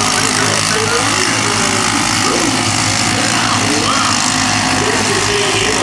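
Engines of several kids' mini race trucks running and revving together, their pitch rising and falling as the trucks race.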